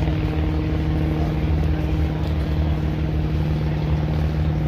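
An engine running steadily with a low, even hum that holds the same pitch throughout.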